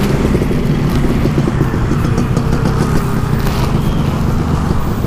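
Yamaha RX King's single-cylinder two-stroke engine running steadily while riding, with wind and road noise.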